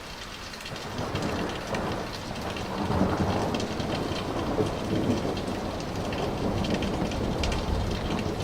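Thunder rolling overhead over steady rain: the rumble builds about a second in, peaks around three seconds and keeps rolling to the end.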